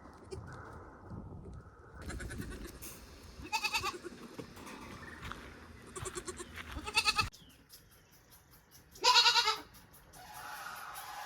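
Goats bleating: three separate calls, the last and loudest near the end.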